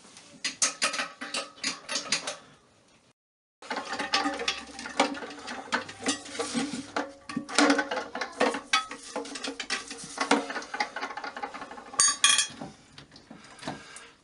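Hand tools clicking and clinking against metal in quick, uneven runs while a toilet tank is taken off, with a short break about three seconds in.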